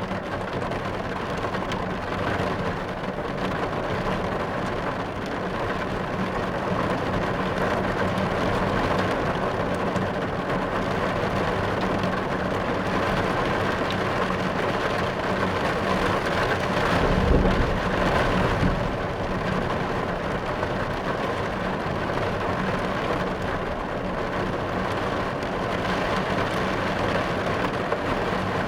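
Steady rain falling on a car's roof and windows, heard from inside the car. A low rumble of thunder comes about seventeen seconds in.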